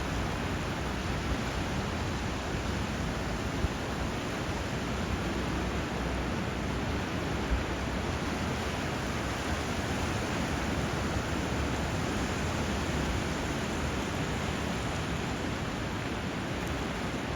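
Steady rushing of flowing water and surf, an even hiss without distinct swells, with two brief ticks a few seconds apart.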